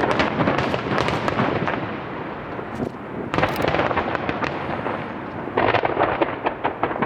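Aerial firework shells bursting in a rapid starmine barrage, with dense booms and crackle coming in three thick clusters about two seconds apart.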